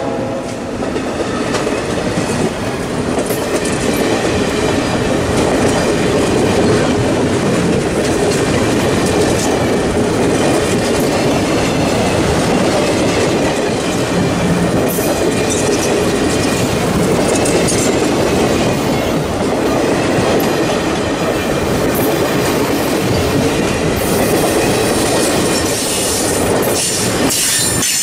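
Passenger train cars rolling past close by: a steady rumble of steel wheels on rail with clickety-clack over the joints.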